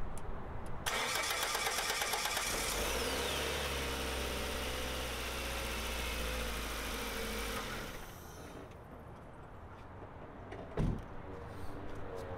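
2001 Mazda 626 engine cranked by its starter for a couple of seconds until it catches, with a high whine falling in pitch just after it starts. It runs steadily for about five seconds, on its newly fitted and tensioned drive belt, then is switched off. A single knock follows near the end.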